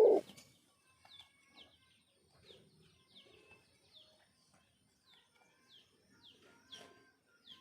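The tail of a dove's loud coo right at the start, then faint, short, falling bird chirps repeating about twice a second.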